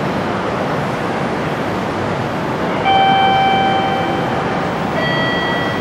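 700 series Shinkansen pulling into the platform with a steady rumble. About three seconds in, a loud sustained tone sounds for nearly two seconds, followed near the end by a second tone at a different pitch.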